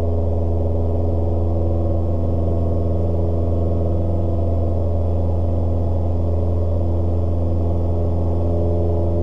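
Cessna 172S's four-cylinder Lycoming engine and propeller droning steadily at climb power, heard through the cockpit intercom audio feed as a low, even hum.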